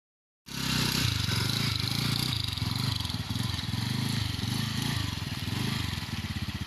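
Small motorcycle engine running steadily, its exhaust pulsing rapidly, with a steady hiss over it. It starts abruptly about half a second in, after dead silence.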